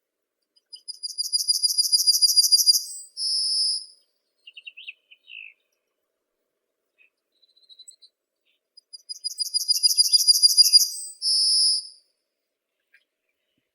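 A songbird sings the same high-pitched song twice, about eight seconds apart. Each song is a fast trill of notes that grows louder and ends in a short buzzy note. Fainter chirps come in between.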